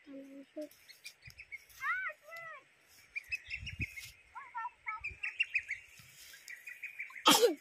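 Wild birds chirping and calling: quick runs of short chirps and a few arching whistled notes. Low thuds of plants being handled come in about the middle, and a short, loud, sweeping sound falls in pitch near the end.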